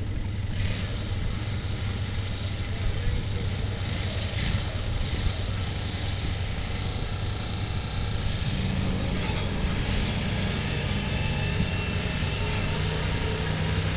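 Garden tractor engine running at a tractor pull, a steady hum, with a stronger engine note coming in about eight and a half seconds in.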